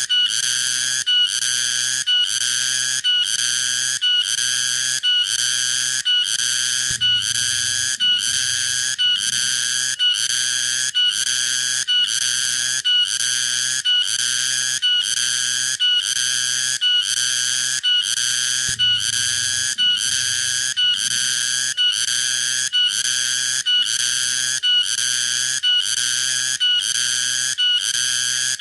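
Tonggeret cicada calling: a loud, high, steady buzz broken into regular pulses about once a second.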